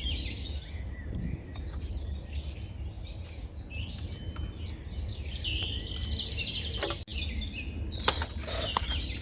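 Forest birds chirping and calling repeatedly over a low steady rumble, with a few sharp knocks near the end.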